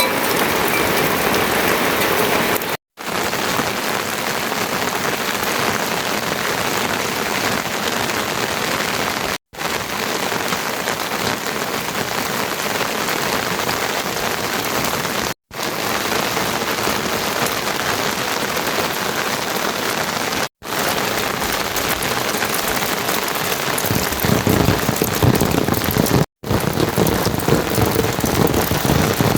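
Steady heavy rainfall, an even hiss of rain on surfaces, cut off for an instant five times. It grows louder and fuller near the end.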